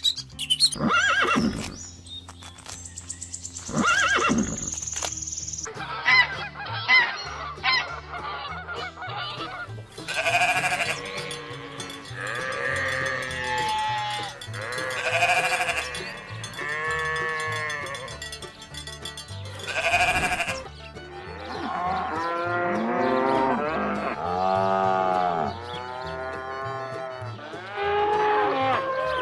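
Farm animals calling, one drawn-out call after another, over a steady background music bed.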